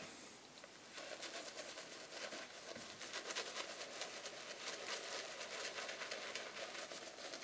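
Badger-hair shaving brush being worked briskly through shaving-soap lather, a soft, fast wet scratching of bristles that starts about a second in. The lather is only just starting to build from a hard mug soap loaded with an almost dry brush.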